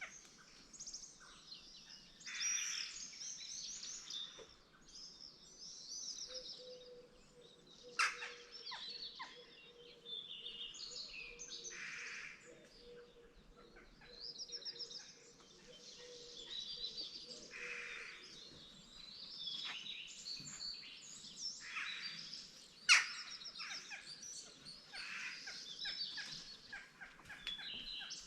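Morning chorus of several small songbirds chirping and singing in quick, overlapping phrases. Two sharp clicks cut through, about eight seconds in and again about twenty-three seconds in.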